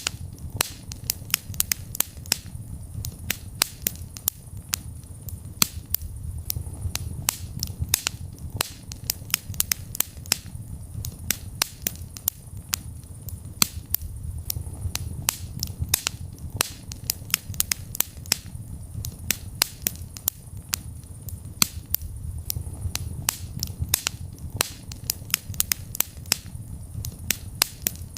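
Wood fire burning in a fireplace, crackling and popping with many sharp irregular snaps over a low steady rumble of the flames.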